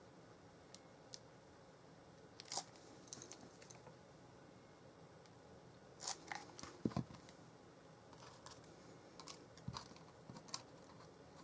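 Card stock and paper being handled at a craft table: scattered light rustles and small taps, with a few sharper crackles about two and a half seconds in and again around six to seven seconds in.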